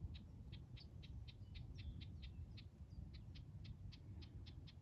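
A small bird giving a fast, even series of short high calls, about four a second, faint over a low background rumble.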